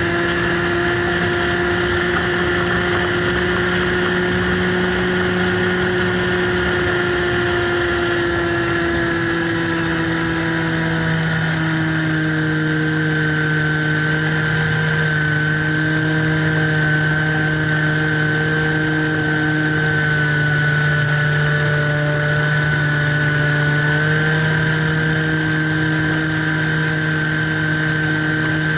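Motor and propeller of a radio-controlled model plane running at a steady throttle, with a steady whine whose pitch dips slightly about halfway through.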